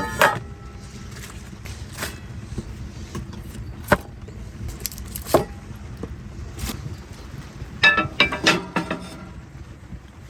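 Scattered knocks and clinks, with one near the start and a quick cluster about eight seconds in that leaves short ringing tones, over a steady low rumble.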